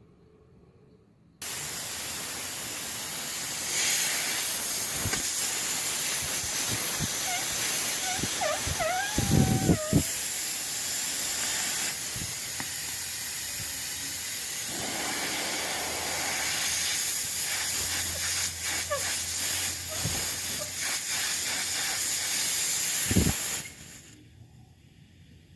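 Compressed air hissing steadily out of an air compressor. It starts suddenly about a second in and cuts off near the end, with a few knocks and a short wavering squeal around the middle.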